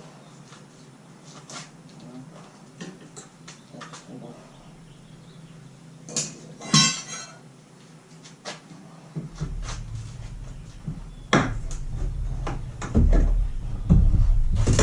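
Scattered clicks, knocks and light clatter of small hard objects being handled, the loudest cluster about six to seven seconds in. From about nine seconds in, a heavy low rumble comes in under more knocks.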